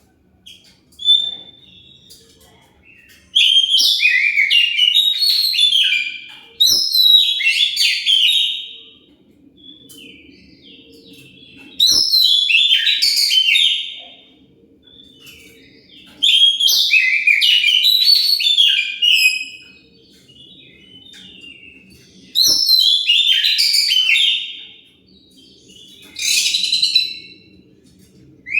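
Oriental magpie-robin (kacer) singing a loud, fast fighting-style song, used as a lure to make other kacers answer. The song comes in phrases of two to three seconds, about seven of them, each split by a short pause.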